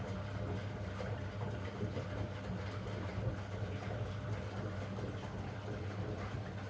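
Zanussi DL22 front-loading washing machine running a 90 °C boil wash: the motor turning the drum gives a steady low hum with a rough, even noise over it.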